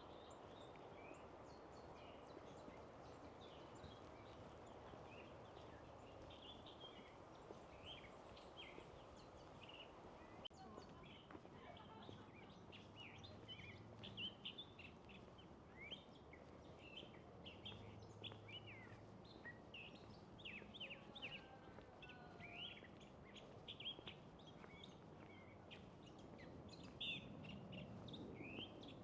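Faint songbirds chirping, many short calls that grow busier about halfway through, over a soft outdoor hush.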